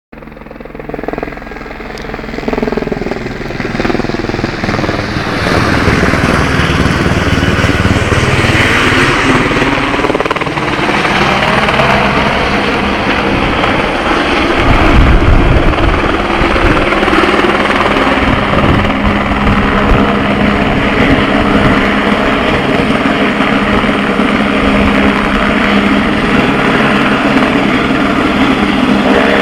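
Helicopter rotor and turbine noise, building over the first five or six seconds as the helicopter comes closer, then holding steady and loud.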